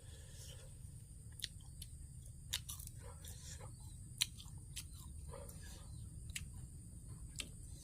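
A person chewing and eating crunchy green papaya salad with shellfish, with scattered sharp clicks and crunches a few times a second over a low steady hum.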